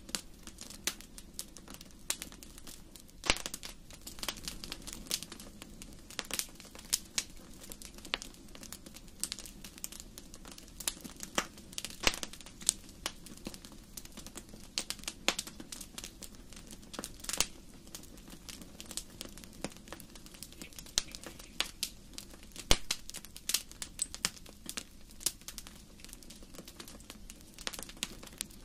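Wood fire burning in a fireplace, crackling and popping at irregular intervals over a low, steady rush of flame.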